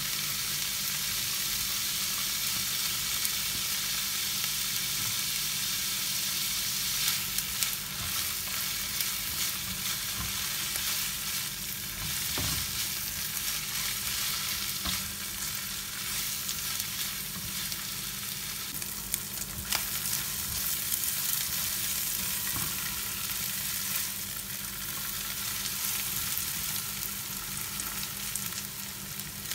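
Rice and sliced chicken sausage frying in olive oil in a nonstick pot: a steady sizzle, with a spatula stirring and knocking against the pot now and then.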